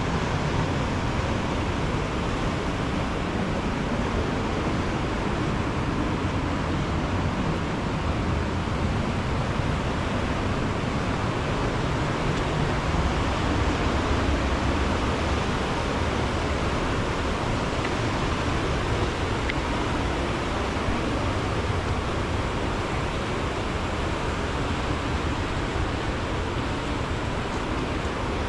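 Steady rushing of water, an even unbroken roar with no distinct events.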